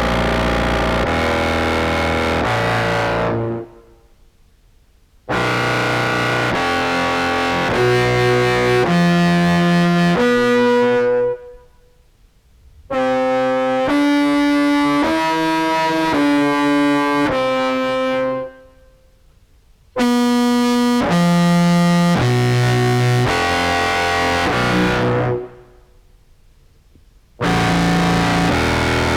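Contrabass clarinet played through an octave-down pitch shifter into a fuzz pedal, giving a distorted, spitty tone with an added lower octave. It plays short phrases of separate stepped notes, broken by pauses of about two seconds.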